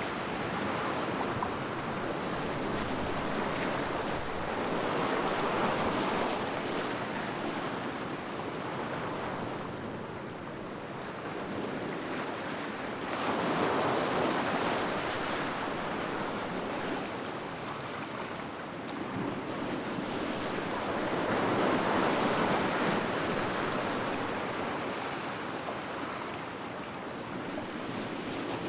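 Sea waves washing onto a shore, a steady rush of surf that swells and recedes every seven or eight seconds, with some wind on the microphone.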